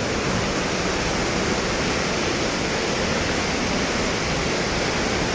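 Thomson's Falls, a 74 m waterfall, thundering steadily: an even rush of falling water and spray with no breaks.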